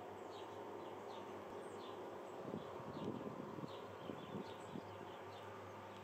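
Outdoor garden ambience: a small bird repeats short falling chirps about twice a second over a steady low buzzing hum. From about two and a half seconds in, scattered soft rustles and light knocks come and go.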